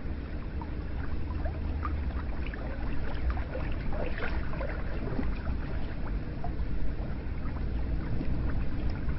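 Hot spring water running into a bath: a steady rush of water with many small splashes and drips scattered through it.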